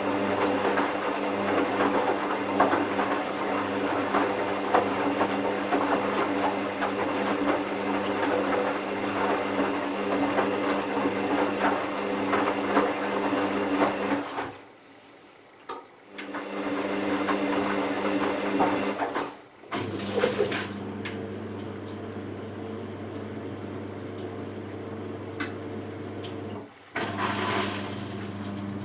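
Hoover Vision Tech washing machine running: a motor hum under water sloshing in the drum for about the first half. After two short quiet gaps it settles to a steadier hum with a few faint clicks.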